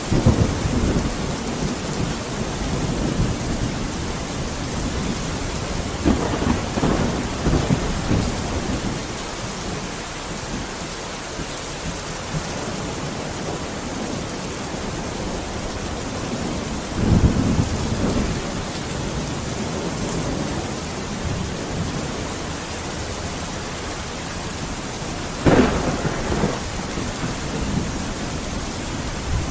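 Steady heavy rain with rolling thunder: low rumbles swell up near the start, a few seconds later and past the middle, and a sharper clap of thunder comes near the end.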